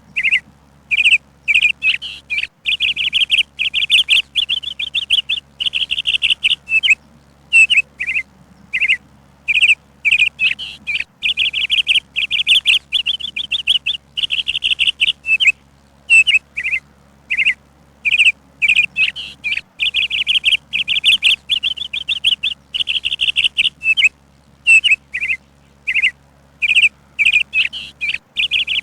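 Birds chirping: short separate chirps alternating with longer runs of rapid trilled notes, coming in bursts every few seconds.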